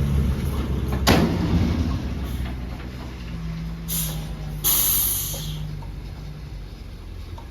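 Heavy diesel earthmoving machinery running with a low rumble. There is a loud bang about a second in, then two short hisses around four and five seconds in, and the engine sound fades toward the end.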